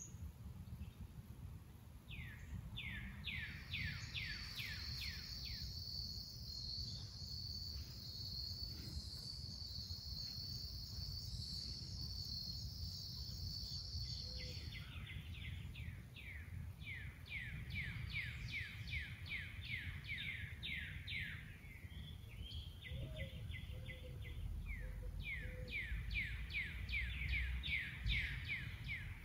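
Outdoor ambience: a songbird calling in series of quick down-slurred notes, with a steady high buzz in the first half that stops suddenly, over a low rumble.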